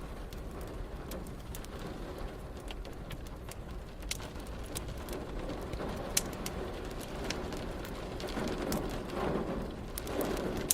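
Wood fire crackling in a fireplace, with frequent sharp pops scattered over a steady hiss of rain. A low swelling rumble rises in the last few seconds.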